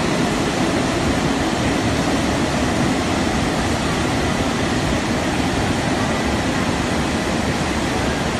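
CC 690 tunnel car wash machine running: a loud, steady rushing noise with a faint steady high whine.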